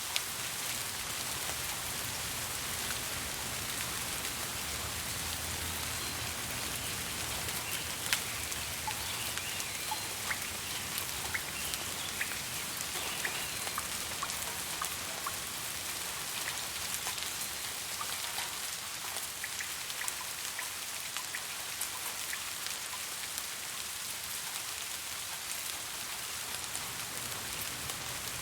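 Steady rainfall, an even hiss with many individual raindrops ticking sharply on a hard surface.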